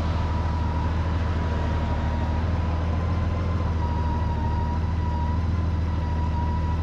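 Motorcycle engine running at a steady speed while riding, a constant low hum with a thin steady whine above it.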